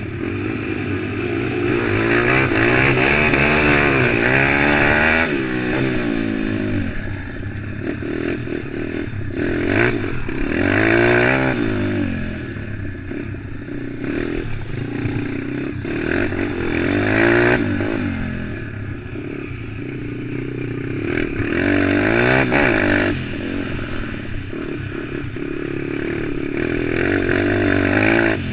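140cc pit bike engine revving up and easing off again and again, with about five loud swells in engine speed.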